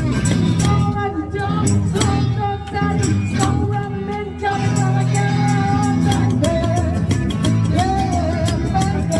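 Rockabilly band playing live with singing, over a steady, driving drum beat, bass and guitar.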